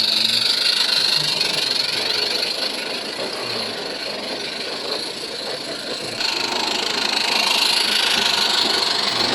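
16mm-scale live-steam garden railway locomotive running, with steam hiss and rapid exhaust beats. It gets quieter for a few seconds in the middle and louder again from about six seconds in.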